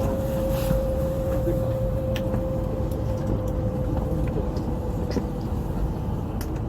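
Cabin running noise of an E5 series Shinkansen at speed: a steady low rumble, with a thin steady whine that fades out about five seconds in and a few light clicks.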